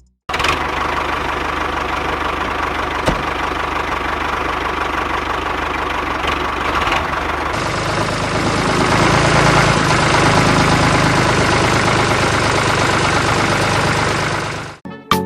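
A small engine running steadily, a little louder in the second half.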